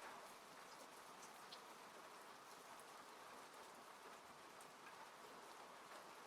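Faint, steady rain on a car, heard from inside the cabin, with a few scattered light drop ticks.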